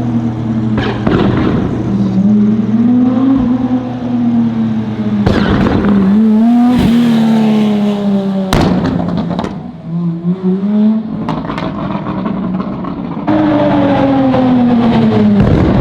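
Performance car engine revving, its pitch held high and swelling up and down, with a few sharp cracks along the way. About 13 seconds in it gets louder, and the pitch falls near the end as the revs come down.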